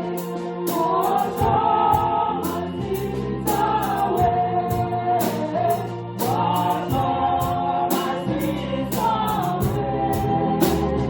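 Church choir singing a gospel song over band accompaniment: held, gliding sung notes over a steady bass line, with drum or cymbal strikes keeping a regular beat.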